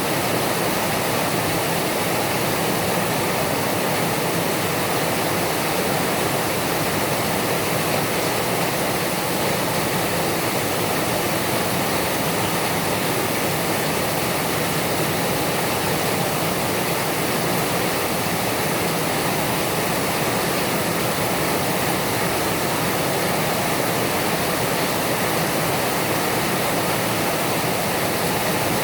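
Heavy rain falling, a steady unbroken hiss of downpour.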